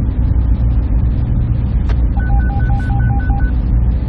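Server room machine noise: a steady, loud low drone. About two seconds in there is a single click, followed by a quick run of about seven short electronic beeps lasting a little over a second.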